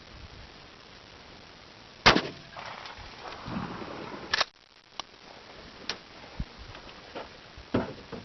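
A 12-gauge Remington 870 shotgun fires a single magnum birdshot round about two seconds in, with a short trailing echo. A second sharp clack follows about two seconds later, then a few lighter clicks.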